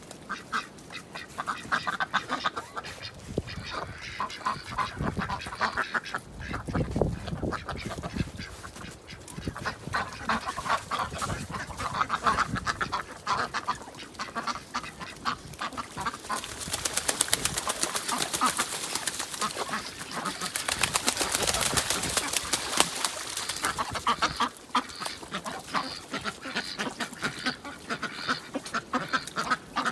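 Ducks quacking on a pond, many short calls overlapping. For several seconds past the middle, a louder, rapid crackling noise joins in over the calls.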